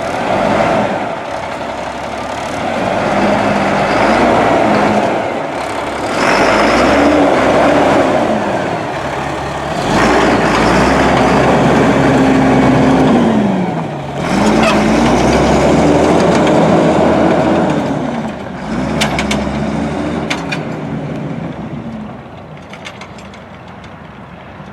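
2000 Freightliner FL80 truck's diesel engine running, revved up and down several times. It settles back to a quieter idle near the end, with a few sharp clicks just before.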